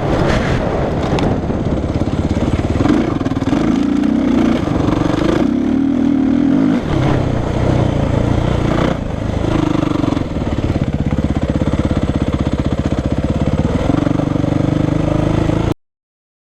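Suzuki RM-Z450 motocross bike's single-cylinder four-stroke engine being ridden hard, its note rising and falling as the throttle opens and closes. The sound cuts off suddenly near the end.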